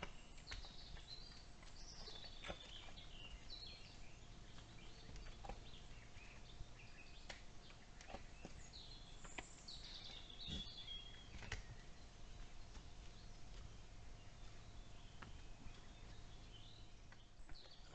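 Forest birds singing faintly in short, chirping phrases, in three clusters, with scattered soft clicks.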